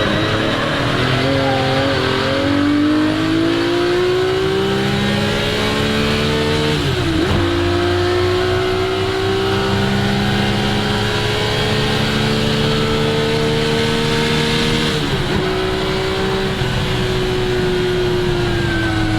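1961 Ferrari 250 GT SWB's three-litre Colombo V12 under full acceleration, its pitch climbing steadily through a gear; it upshifts about seven seconds in, climbs again through a long pull, and upshifts once more near fifteen seconds, then holds its revs.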